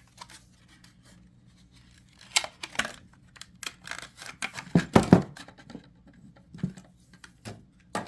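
Plastic packaging being handled and opened, a sleeve and a clamshell tray: a run of crinkles, scrapes and clicks, busiest about five seconds in.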